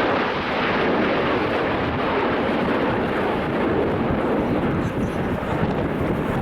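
A formation of Aermacchi MB-339 jet trainers flying past, a loud, steady jet noise.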